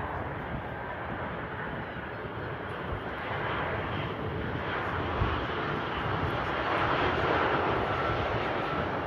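An airliner's engines running as it passes, the rumble growing louder toward the end, with gusty wind buffeting the microphone.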